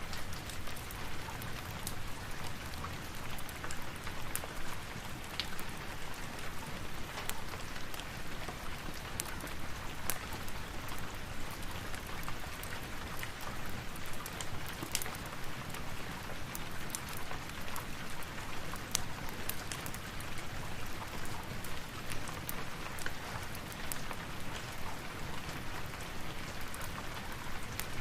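Steady rain, a dense even hiss with scattered sharp clicks of drops or crackles throughout.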